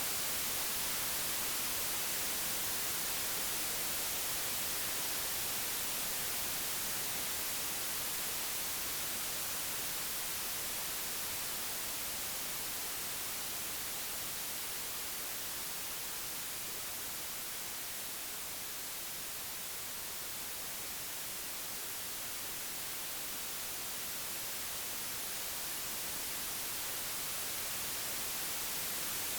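Computer-generated pure white noise: a steady, even hiss that swells and fades slowly, sinking a little toward the middle and rising again near the end.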